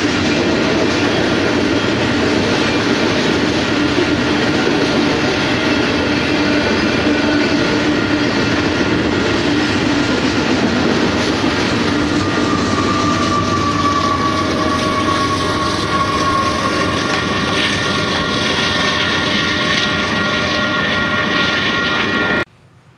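A freight train of covered hopper cars rolling past close by: steel wheels rumbling and clicking over the rails. Steady high squealing tones join in about halfway through. The sound cuts off suddenly near the end.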